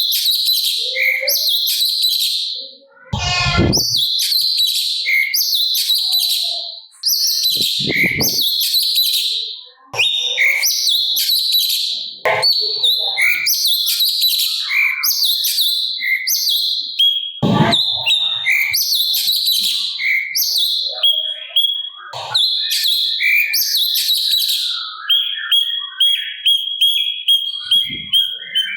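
Cucak cungkok singing loud, rapid chattering phrases almost without pause, broken by a few harsh, rasping calls. Near the end it settles into a quicker run of short, even, high notes.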